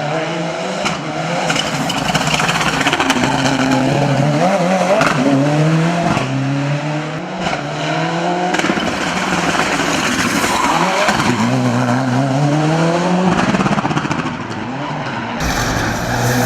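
Turbocharged four-cylinder engine of a race-built Mitsubishi Lancer Evolution VI at full throttle, its pitch climbing hard and dropping back over and over as the car accelerates, shifts and lifts between corners on a hill climb. The sound changes abruptly near the end.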